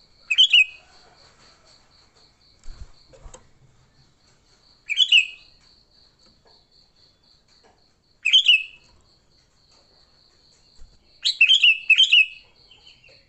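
Sooty-headed bulbul giving short, loud chattering song phrases every three to four seconds, with two quick phrases together near the end: its excited territorial 'fighting' song. Under it runs a faint, steadily pulsing high tone like a cricket.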